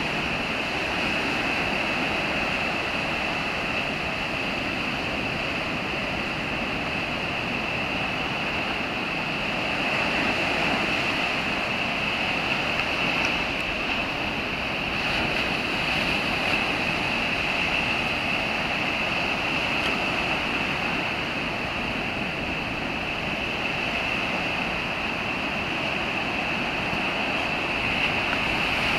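Rough, typhoon-driven sea: heavy surf breaking continuously on a beach, a steady wash of waves that swells and eases slightly.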